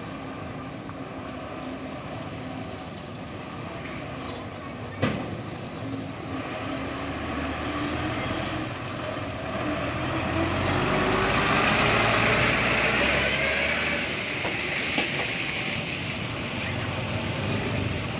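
Heavy truck engine running under load. Its pitch rises as it revs harder in the second half, and there is a single sharp knock about five seconds in.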